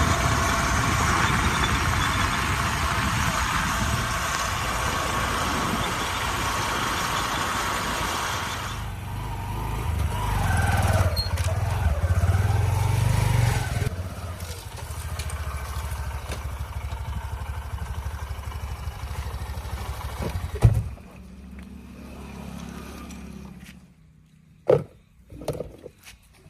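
Tractor engine running, loud and noisy for the first several seconds, then a lower steady running. A single sharp knock comes about 21 seconds in. The engine sound falls away near the end, leaving a couple of short knocks.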